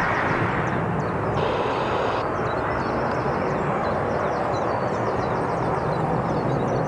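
Boeing 757 jet airliner heard from the ground as a steady, even roar, flying on its remaining engine after a bird strike took out the other one.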